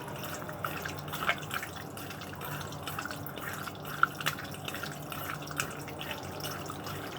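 Sliced chicken being mixed in a soy sauce marinade, a run of irregular small wet clicks and squelches with one sharper click about four seconds in.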